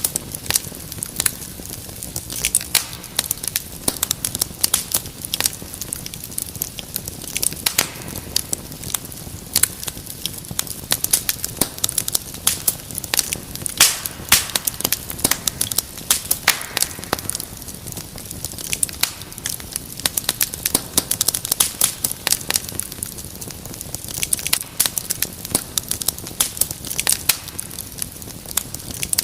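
Wood fire crackling in a fireplace: a dense, irregular stream of sharp pops and snaps over a steady low hiss.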